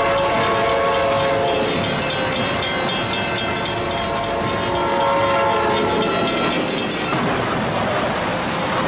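Amtrak train's horn blowing a steady multi-note chord as the train approaches at speed; after about seven seconds the horn stops and the rushing noise of the train takes over.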